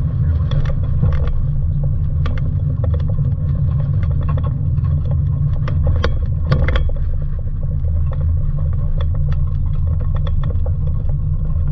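Mazda Miata's four-cylinder engine running at low revs as the open-top car rolls along at low speed, a steady low rumble with scattered light clicks and rattles.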